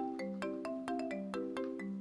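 Background music: a comical marimba tune, a quick run of short struck notes, about five a second, over a steady held accompaniment.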